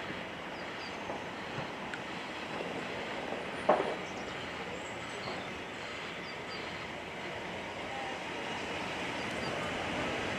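A train running, heard as a steady, even rumble and hiss, with one sharp clank nearly four seconds in.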